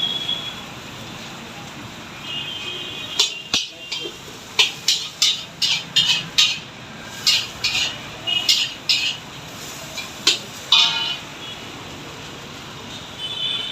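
Metal cooking utensils clinking and clanging against a metal pan, a string of sharp strikes in irregular clusters from about three seconds in until shortly after ten seconds, over a steady background hiss.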